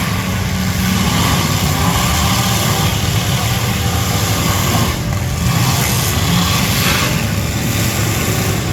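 Several demolition derby cars' engines running loudly together in a steady, dense din.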